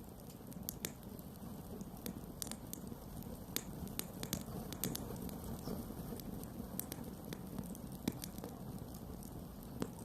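Campfire burning: a steady low rush of flames with frequent sharp crackles and pops from the burning wood, a few of them louder.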